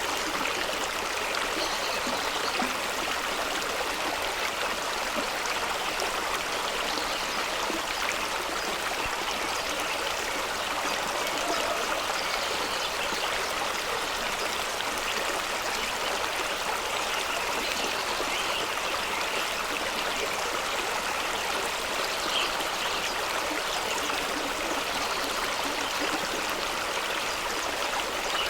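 Fast-running stream rushing and splashing over rocks, a steady, even wash of water noise.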